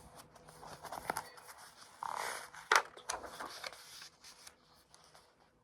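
Paper rustling and scraping as a picture book's pages are handled, with a few sharp clicks and a short hissing rustle about two seconds in, dying away near the end.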